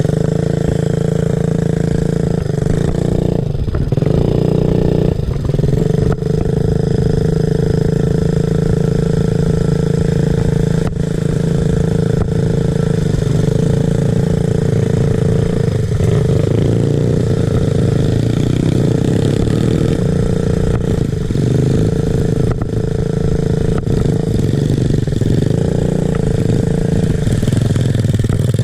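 Small off-road motorcycle engine running at a steady pace, with brief drops in level every few seconds.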